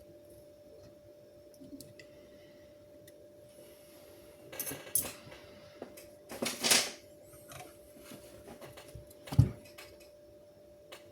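Small hard tools and parts clinking and scraping as they are handled on a workbench, with a sharp knock about nine seconds in, over a faint steady hum.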